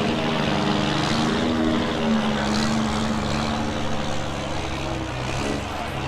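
Semi-truck diesel engine running hard, its pitch drifting slightly lower as the sound slowly fades toward the end.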